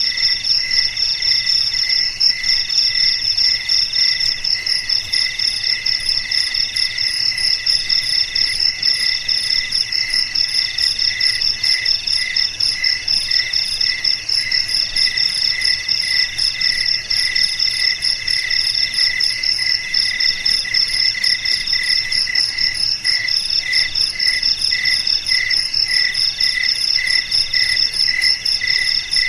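Several crickets chirping at once in a steady chorus of high, fast-pulsing trills at different pitches; one voice breaks into phrases of about a second with short pauses between them.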